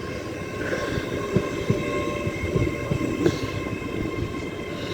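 LNER Class 801 Azuma train running into the platform, its wheels rumbling on the rails with a few irregular sharp knocks and a steady high whine over the top.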